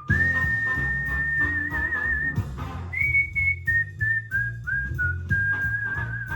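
A whistled tune over instrumental backing music: one long held note with vibrato near its end, then a run of shorter notes at changing pitch and another long wavering note. The tune is one of the melodies whistled to train cockatiels to sing.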